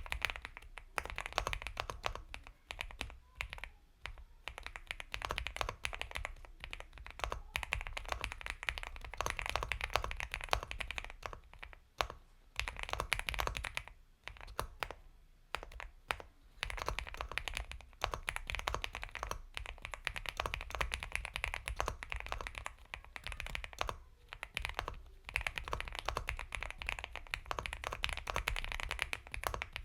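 Continuous fast typing on an Epomaker x Feker Galaxy 80 mechanical keyboard with Gateron Milky Yellow Pro linear switches: soft, creamy keystrokes in quick runs, with brief pauses now and then.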